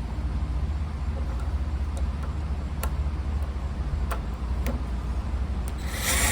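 Light clicks of a screw being tightened into the belt sander's plastic wheel hub, over a steady low hum, with a short burst of whirring noise near the end.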